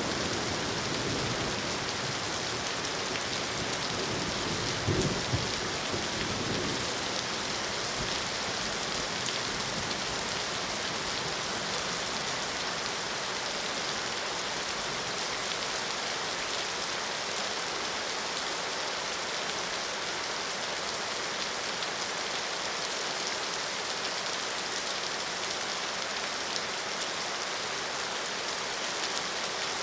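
Steady, heavy rain falling, a dense even hiss. A brief low rumble rises about five seconds in.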